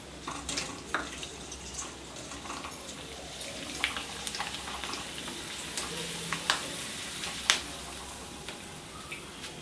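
Shredded potato (aloo bhujia) sizzling as it deep-fries in hot oil in a wire-mesh frying basket, a steady hiss broken by a few sharp clicks.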